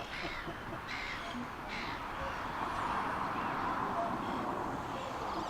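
A bird giving three short harsh calls in the first two seconds, over a steady background hiss.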